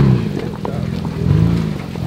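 Off-road 4x4's engine blipped with short bursts of throttle while crawling over rock, its pitch rising and falling back twice.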